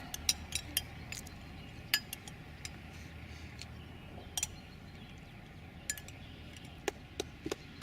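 Scattered light clinks and taps of glassware and utensils: several close together in the first two seconds, then a few single ones later on.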